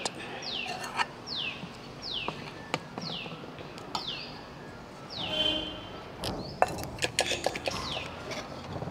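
A bird calling again and again in short, high notes that each fall in pitch, roughly one every half second to a second, with a few sharp clicks and knocks among them.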